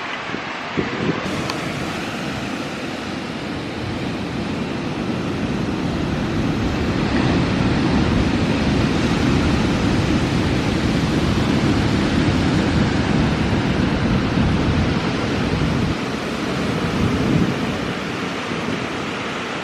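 Beach ambience: wind on the microphone over ocean surf, a steady rushing noise that swells through the middle and eases a little about three-quarters of the way through.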